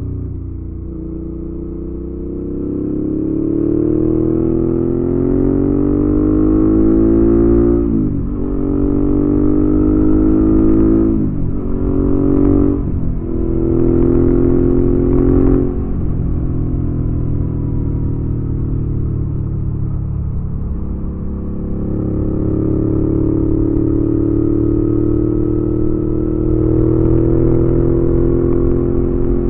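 2019 Suzuki V-Strom 650's 645 cc V-twin running through a Delkevic aftermarket exhaust while riding. The engine note climbs under acceleration, dips sharply at a series of gear changes about a third to halfway through, settles into a steady cruise, then rises again and holds near the end.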